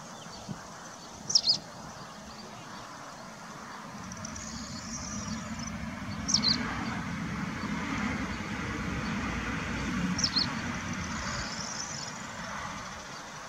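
A bird's short, sharp chirp, repeated about every four seconds. Beneath it, outdoor background noise swells through the middle and fades again.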